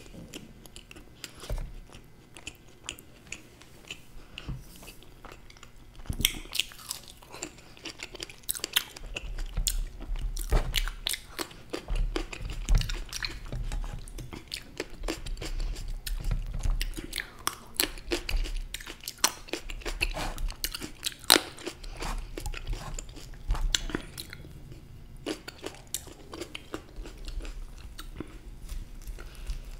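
A person chewing and biting food close to the microphone, with irregular crunches and clicks that grow busier about six seconds in.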